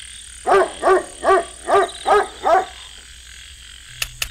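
A frog croaking six times in an even series, about two and a half croaks a second, over a faint steady high tone. Two sharp clicks come near the end.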